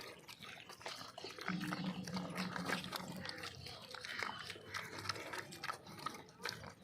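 Pigs chewing, with many small crunching clicks, and a low grunt from about one and a half to three seconds in.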